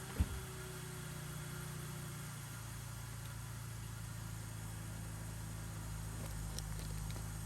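BMW E39 engine idling steadily just after a start, with one sharp knock shortly after the beginning.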